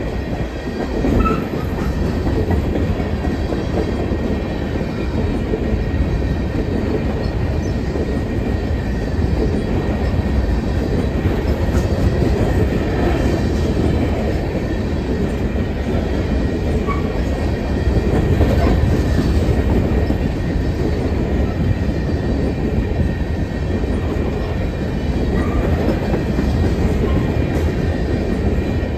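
Freight train of coal hopper cars rolling steadily past: a continuous low rumble of wheels and car bodies on the rails, with occasional clanks.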